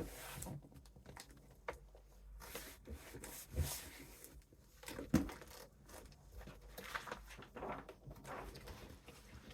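Paper gift bag and poster board being handled: scattered rustling and crinkling with light taps and knocks, the sharpest knock about five seconds in.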